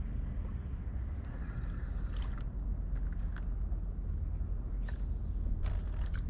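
Ambient sound aboard a kayak on the water: a steady low rumble, with a few short clicks and rustles from handling gear, the first about two seconds in and a cluster near the end.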